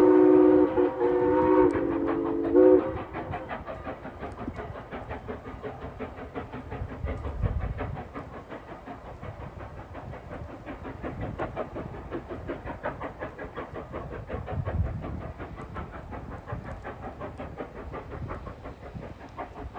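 Steam locomotive #89's whistle sounding a chord of several notes at once, ending with a brief upward bend just under three seconds in. The passing train follows with an even clickety-clack of wheels over the rail joints.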